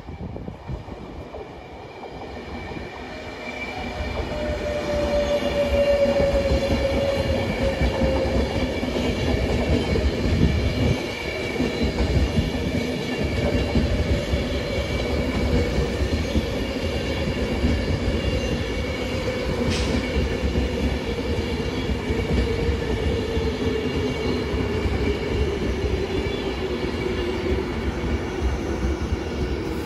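A train running through the station, its rumble building over the first few seconds and then holding steady. A whine sinks slowly in pitch throughout, and there is one sharp click about twenty seconds in.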